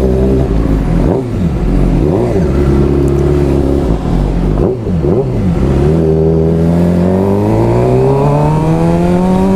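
Suzuki GSX-R600 inline-four motorcycle engine under way. Its pitch drops and comes back up about three times, then rises steadily over the last few seconds as the bike pulls through a gear.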